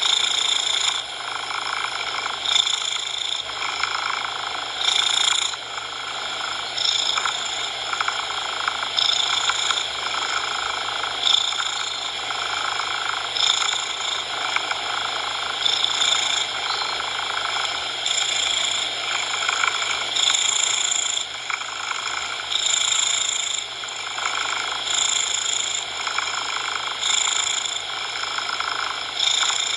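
A cat purring, swelling and easing about every two seconds with its breaths, mixed with a steady artificial coloured-noise hiss.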